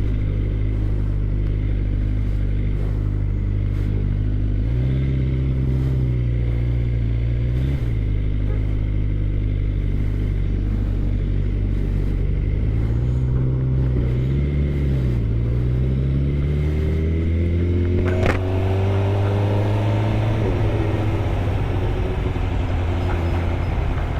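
A 2013 Suzuki GSX-R600's inline-four engine running during a ride, its note shifting up and down a few times. A sharp click comes about three-quarters of the way through, followed by a long rise in pitch as the bike accelerates.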